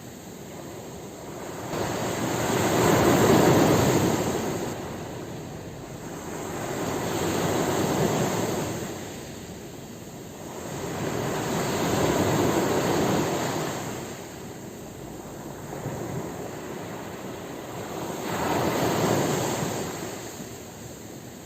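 Ocean waves washing onto a shore: surf noise rising and falling in slow surges, four big swells a few seconds apart with a smaller one between the last two.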